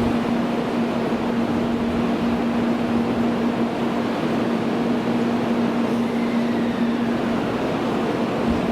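Steady station-platform drone: a constant low hum over even machinery noise, with a faint falling whistle about two-thirds of the way through.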